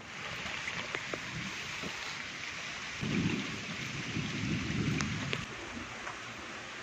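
Heavy rain falling steadily, with scattered drop ticks. A low rumble of thunder comes in about three seconds in, lasts a couple of seconds, and dies away.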